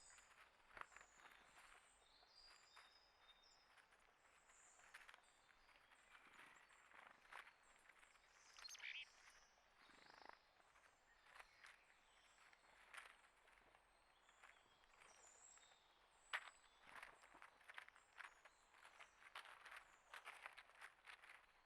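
Faint outdoor sounds of small birds: short high chirps, most of them in the first few seconds and again in the middle, among many light clicks and ticks.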